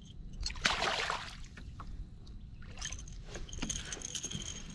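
A hooked catfish splashing at the surface beside a kayak as it is brought in to be landed, a short loud splash about half a second in, followed by scattered light clicks and knocks.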